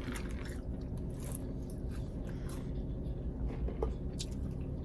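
A person chewing fried food close to the microphone: soft, wet chewing with scattered small clicks and crunches.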